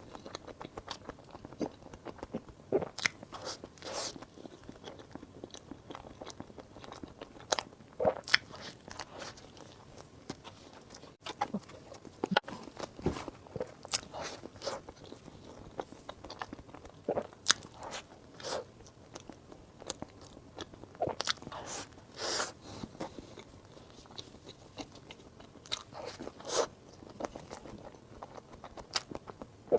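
Close-miked eating: irregular bites and chewing, with sharp sticky clicks and mouth sounds, some much louder than the rest.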